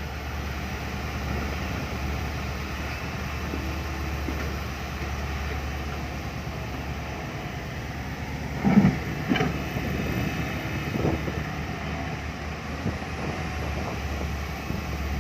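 Isuzu Rocky six-wheel dump truck's diesel engine, a swapped-in 185 engine, running with a steady low drone. There is a brief louder sound about nine seconds in.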